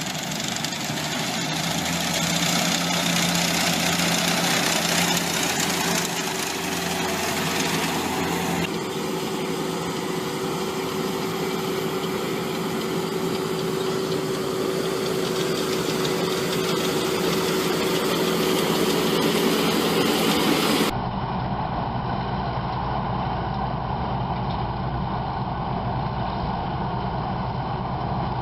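Heavy farm machinery running steadily, with a constant hum. The sound changes abruptly twice, as different machines' recordings are cut together.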